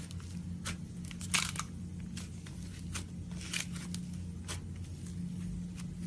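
Slime being squeezed and stretched by hand, giving off irregular sticky clicks, pops and crackles, with a few longer crackling bursts. A steady low hum runs underneath.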